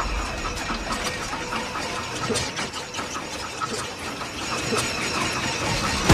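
Small aircraft's engine running, heard from inside the cabin, with rapid irregular clicking, rattling and squeaks from the airframe. These are the kind of noises the passengers take for a sign of trouble.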